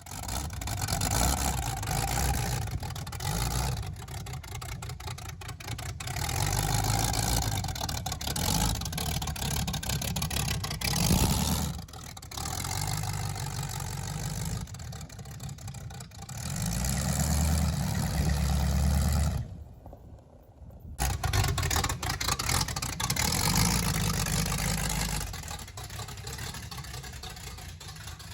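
An engine running, its sound swelling and easing off several times, with a short lull about twenty seconds in.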